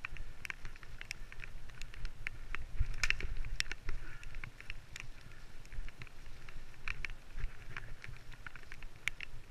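Mountain bike descending a rough trail: a steady low rumble with irregular rattles and clicks from the bike jolting over the ground.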